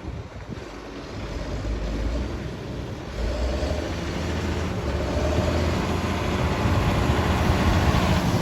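John Deere 6830 tractor's six-cylinder diesel engine running as the tractor drives. It grows steadily louder, with a step up about three seconds in.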